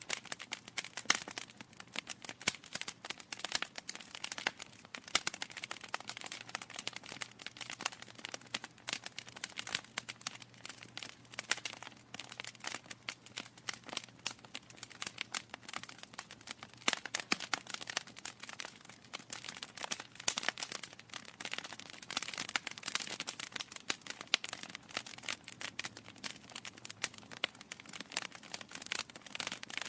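Wood logs burning in a fireplace, crackling with a dense, irregular run of small snaps and occasional louder pops.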